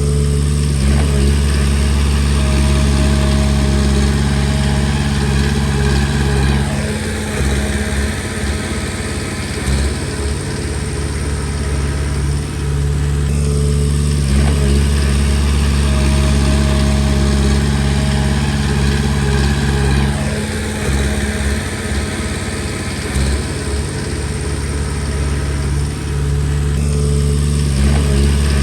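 Komatsu D20P bulldozer's diesel engine running steadily. Its pitch shifts about every six or seven seconds as the engine load changes through the pushing passes.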